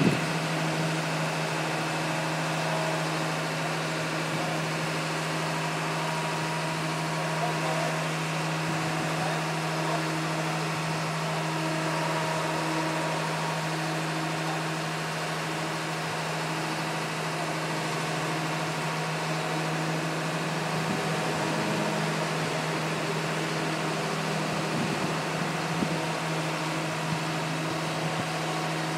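Drill rig's engine running steadily, a constant droning hum.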